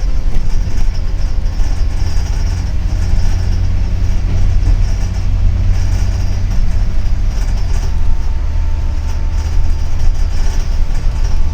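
Steady low engine and road rumble inside a moving double-decker city bus, with a faint steady whine joining about eight seconds in.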